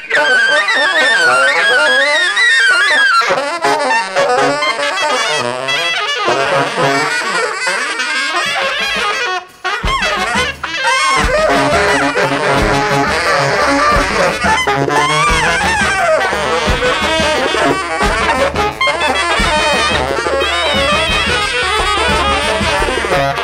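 Free-jazz big band horn section, saxophones and trumpet, playing loose interweaving lines live. After a brief break about ten seconds in, bass and drums enter under the horns and keep a steady beat.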